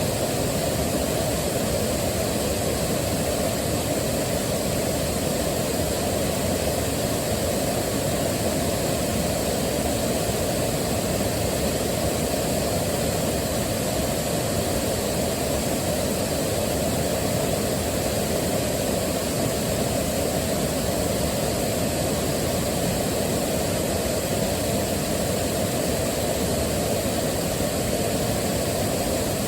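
Steady rushing of a waterfall, a deep, even sound with no change.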